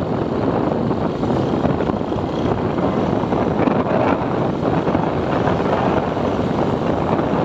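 Steady wind rush buffeting the microphone on a moving motorbike, mixed with the bike's engine and road noise.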